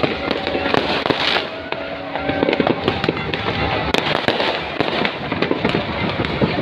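Fireworks going off in quick succession: many sharp bangs and crackles overlapping one another, with some steady tones mixed in.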